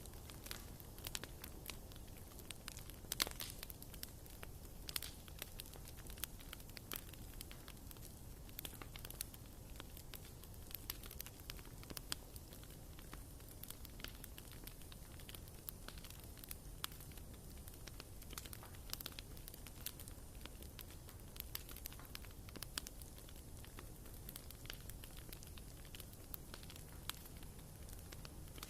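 Wood fire burning in a fireplace, crackling with frequent sharp pops over a low steady rumble; the loudest pop comes about three seconds in.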